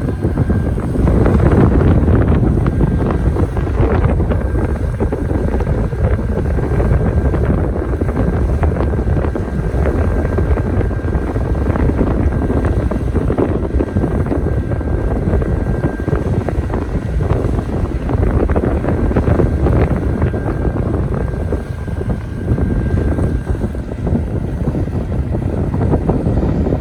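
Strong wind gusting across the microphone, a dense, uneven rumble. A faint steady high tone sounds through much of it and fades about two-thirds of the way in.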